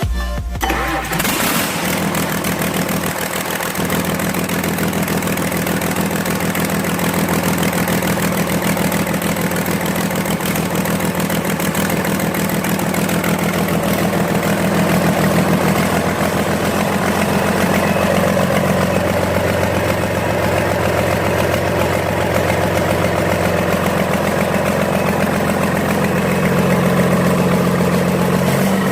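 Komatsu SA6D125-series six-cylinder diesel engine running steadily on a ground test run, its firing rhythm even throughout.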